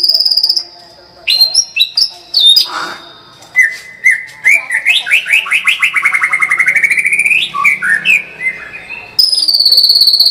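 White-rumped shama (murai batu) singing a varied song: quick high trills and whistled phrases, a long run of rapid repeated notes, then from about nine seconds a loud, fast, high rattling trill, the 'tembakan' burst that shama keepers prize.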